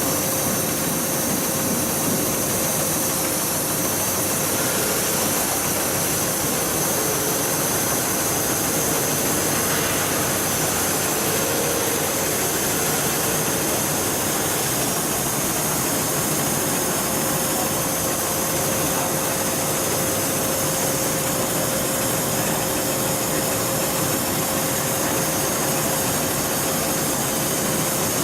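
Heavy-duty bridge-type programmable pattern sewing machine running: a steady mechanical whir with a constant hum.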